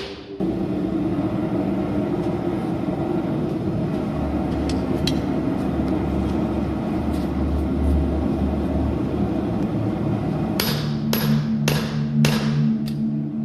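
A steady running noise with a low hum fills most of the stretch. Near the end, hammer blows on steel begin, about two a second, as an old file is forged into a knife blade.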